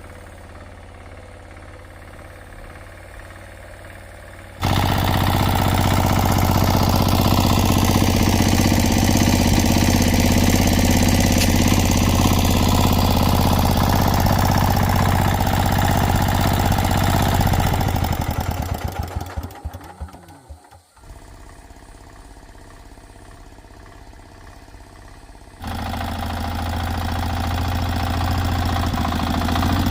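A small engine running steadily; about eighteen seconds in it is shut off and slows to a stop, its separate strokes heard as it winds down. A few seconds later an engine is running again.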